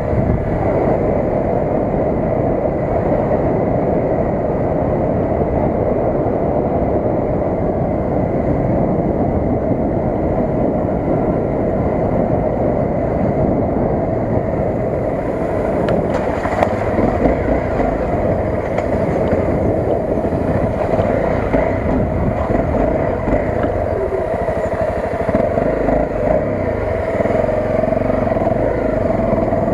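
Honda CRF250 dirt bike's single-cylinder four-stroke engine running steadily.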